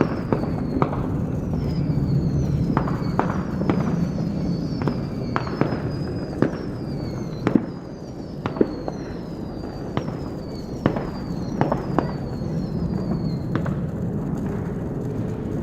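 Fireworks going off: sharp bangs at uneven intervals over a continuous low rumble, with a long string of high whistles that each fall in pitch, one after another.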